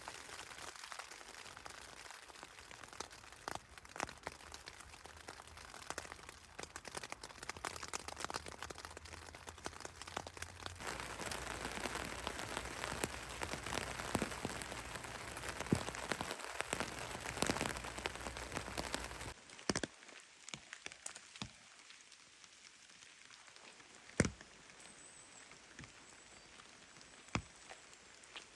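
Rain falling, a steady patter with many single drops ticking, heavier from about a third of the way in. About two-thirds through it stops abruptly, leaving a quieter background with a few isolated sharp ticks.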